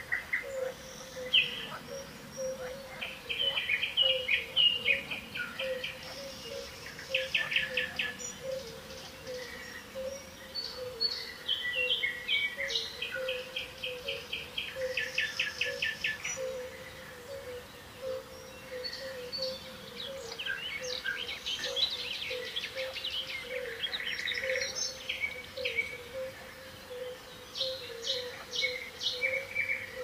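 Birds chirping and calling in overlapping song, with several quick rattling trills, over a steady faint low hum.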